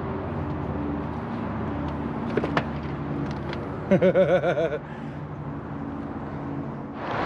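Turbocharged truck engine idling steadily, with a couple of light clicks, and a brief, loud, rapidly wavering tone about four seconds in.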